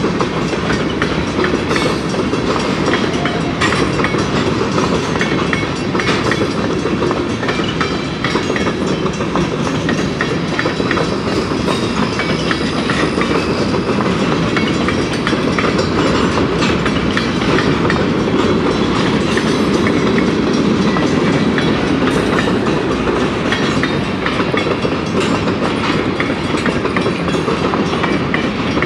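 Canadian Pacific freight train's covered hopper cars rolling past close by: a loud, steady rumble of steel wheels on the rails with frequent sharp clicks and clacks from the wheels and rail joints.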